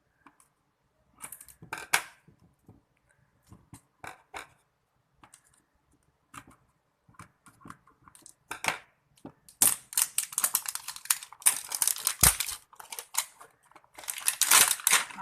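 Plastic toy packaging being handled and unwrapped: scattered clicks and rustles, then from about ten seconds in a steady stretch of wrapper crinkling and tearing.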